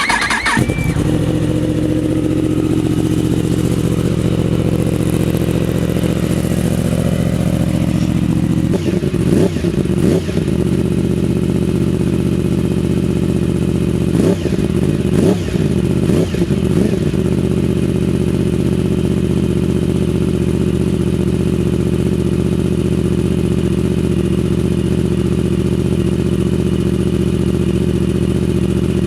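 Yamaha R1 inline-four sport bike engine starting up through an aftermarket exhaust and settling into a loud idle. It is blipped several times about nine seconds in and again around fifteen seconds in, then drops back to idle.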